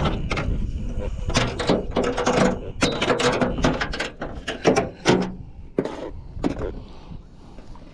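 Irregular mechanical clicking, rattling and knocking, like a ratcheting mechanism being worked, with a low rumble underneath.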